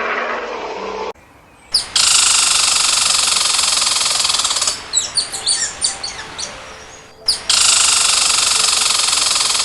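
A loud, steady, high-pitched buzzing chorus, interrupted for a couple of seconds by a run of quick bird chirps, then the buzzing again.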